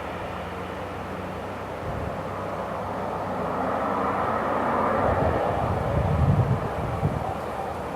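Boeing 737-800's CFM56 jet engines roaring as the airliner passes close by on its landing. The roar builds for about five seconds, peaks near the end, then begins to ease.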